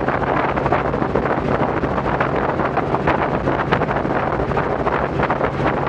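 Robinson R44 helicopter in flight: a steady engine and rotor drone with a constant low hum, under rushing wind noise buffeting the microphone.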